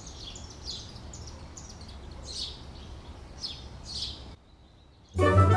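A small bird chirping over and over, short falling chirps every half second to a second, over a low steady outdoor rumble. The sound cuts off about four and a half seconds in, and a chiming jingle starts near the end.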